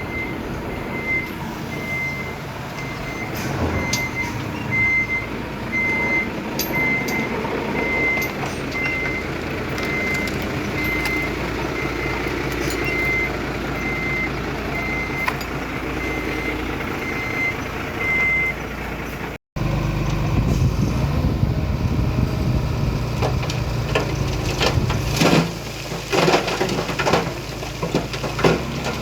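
A heavy machine's reversing alarm beeps at one steady pitch, about one and a half beeps a second, over a running diesel engine. After a cut about two-thirds of the way in, the beeping is gone and a diesel engine runs louder and lower, with scattered metallic clanks.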